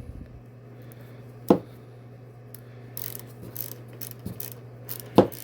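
1/4-inch ratchet and socket working an engine cover bolt: a sharp knock about a second and a half in and another near the end, with lighter clicks between.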